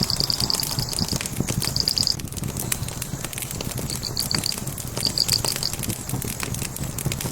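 Log fire crackling, with many sharp pops and snaps over a low steady rush. Short trains of rapid high chirps repeat several times in the first six seconds.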